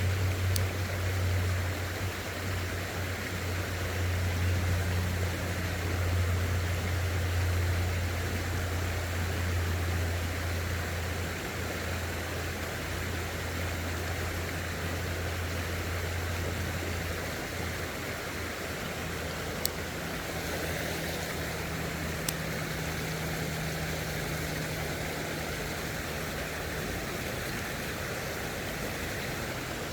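Creek water running steadily. A low steady hum runs under it through the first half, and two short clicks come about twenty seconds in.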